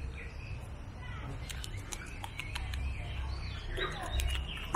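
Small birds chirping in short, quick high notes, scattered through the second half, over a steady low rumble.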